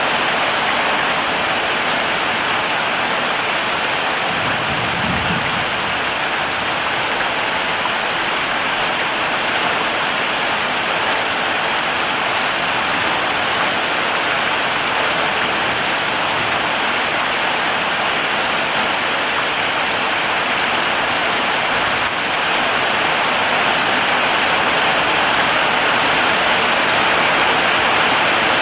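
Heavy rain falling steadily, a dense even hiss of drops, with a brief low rumble about five seconds in; the rain grows slightly louder from about two-thirds of the way through.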